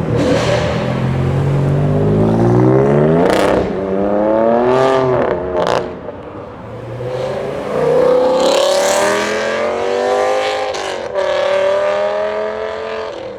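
Car engine accelerating hard at full revs, its pitch climbing and then dropping sharply at gear changes about three times.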